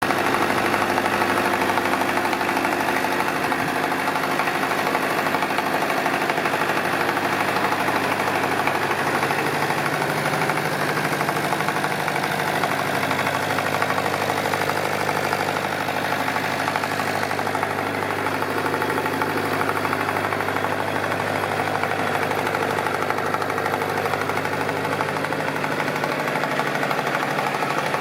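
McCormick International B414 tractor engine idling steadily.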